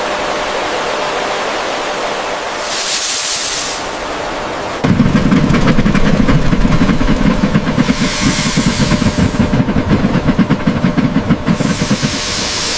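Steady hissing, then about five seconds in a low mechanical rumble with a fast rattle starts and runs on, with three short bursts of high hiss spread through.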